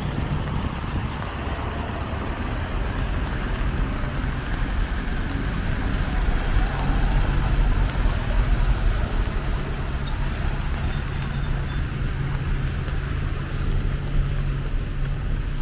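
Road traffic on a wet city avenue: a continuous low rumble of passing vehicles over a hiss of tyres, with a steady low engine hum that joins about six seconds in.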